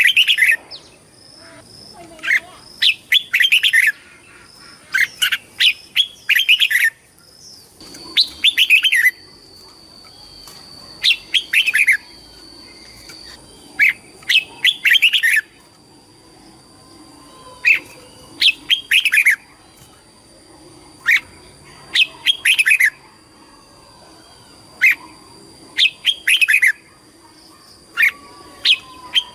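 Red-whiskered bulbul singing short, bright phrases of quick falling notes, repeated every second or two, over a faint steady high-pitched tone.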